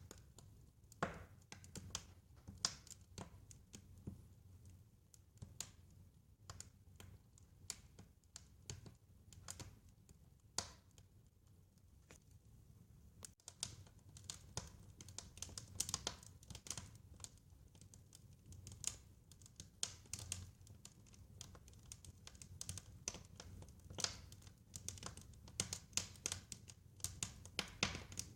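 Wood fire crackling, with irregular sharp pops and snaps over a low, steady rumble; the pops come more often from about halfway through.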